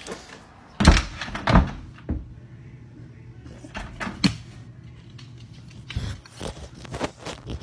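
A series of knocks and thumps, the two loudest about a second in and a little over half a second apart, then several weaker ones.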